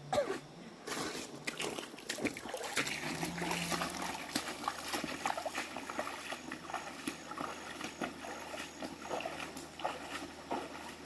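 Irregular splashing and knocking over the faint rush of running water.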